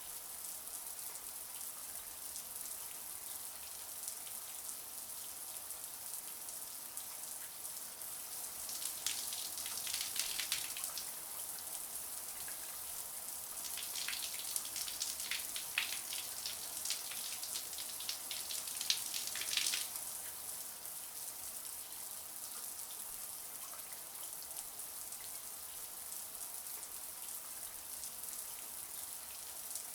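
Shower water spraying steadily, a continuous hiss of spray, with spells of heavier spattering about nine seconds in and again from about fourteen to twenty seconds in.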